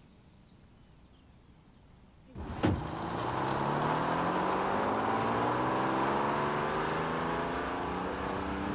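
Quiet room tone, then about two and a half seconds in a sharp knock and a vintage motor vehicle's engine, rising in pitch as it accelerates and then running steadily.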